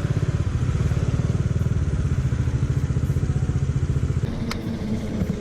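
Motorcycle engine running close by, with a fast, even exhaust beat; it eases off about four seconds in. A single sharp click comes near the end.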